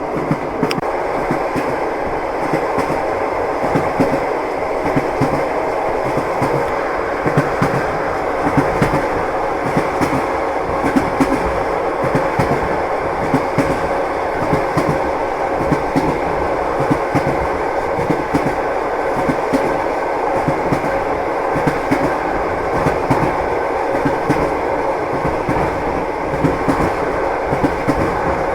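Train wheels clicking over rail joints at running speed, the clickety-clack over a steady rumble of the moving carriage.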